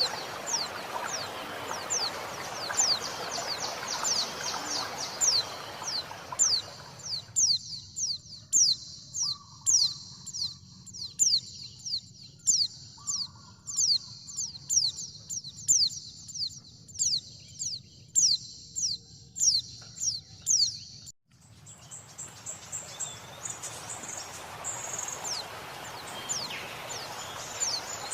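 Female white-eye (pleci) repeating a short, high, falling call about twice a second, mixed with running water. The water drops out for a stretch in the middle and returns suddenly near the end.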